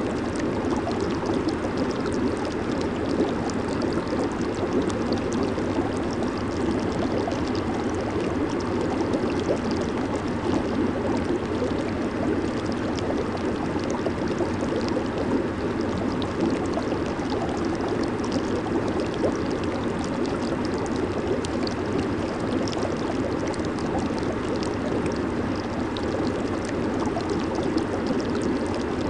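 Hot tub jets running: a steady, churning rush of bubbling water with fine crackling fizz.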